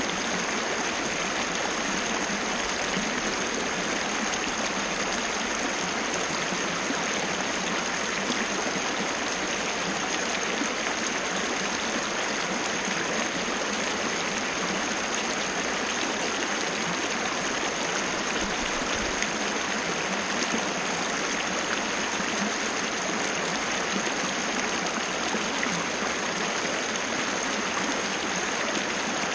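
Small waterfall, water pouring and splashing in a steady, unchanging rush, with a faint steady high-pitched tone running above it.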